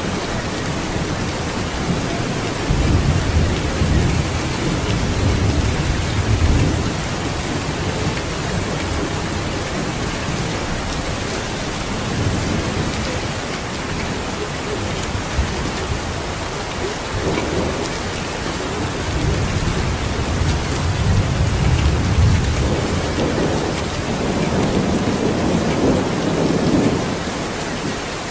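Steady rain falling, with thunder rumbling low twice: a few seconds in, and again through most of the second half.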